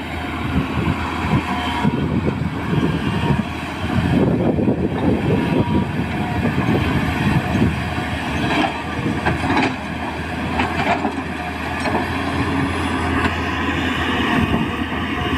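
Tata Hitachi EX200LC hydraulic excavator's diesel engine running steadily under working load, with a few faint knocks.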